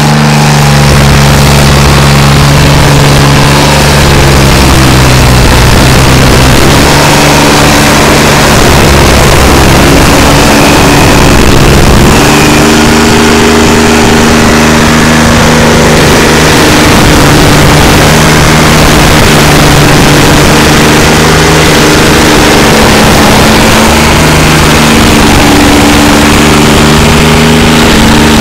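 SP-7015TRX stump grinder running loud, its engine note shifting up and down under varying load.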